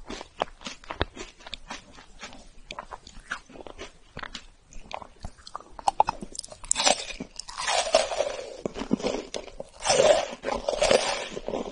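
Close-miked crunching and chewing of a chocolate-coated wafer bar: quick, irregular crisp crunches, then a fresh bite about six seconds in followed by louder chewing.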